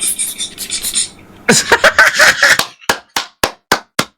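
A person's voice, then a fast, even run of sharp smacks, about four a second, starting near the three-second mark.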